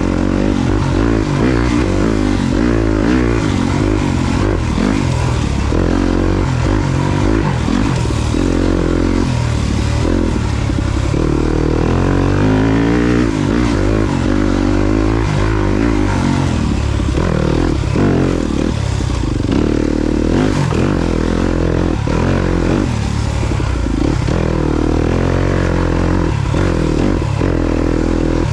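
Yamaha YZ250FX four-stroke single-cylinder dirt bike engine under way on a trail, its revs rising and falling constantly with the throttle. Frequent short knocks run through it.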